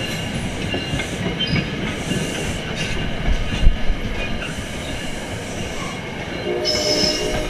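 Commuter train of Comet passenger cars rolling past, wheels clattering over the rail joints in a steady rumble. A brief tonal squeal rings out near the end.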